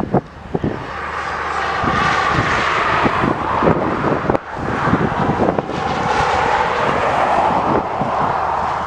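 Airliner's engines passing, a rushing noise that builds over the first couple of seconds and holds strongly, with wind buffeting the microphone.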